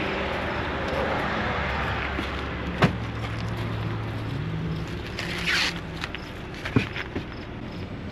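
Car driving, a steady engine hum with road noise; the engine's pitch steps up partway through. A few sharp knocks come through, the loudest about three seconds in.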